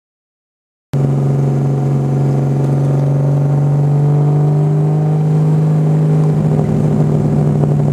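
Bee-R Nissan Skyline GT-R race car's 2.8-litre RB26DETT straight-six, fitted with a big single T51R turbo, running loudly at a steady pitch. The sound cuts in suddenly about a second in.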